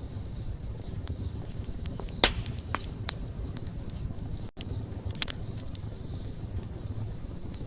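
Wood campfire burning: a steady low rumble with scattered sharp crackles and pops, the loudest a little over two seconds in. The sound drops out for an instant just past halfway.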